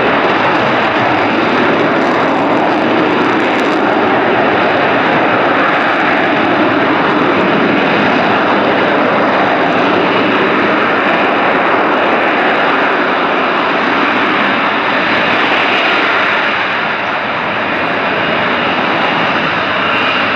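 RAF F-35B Lightning II's single jet engine, loud and steady throughout as the fighter flies its display, dipping slightly about three-quarters of the way through.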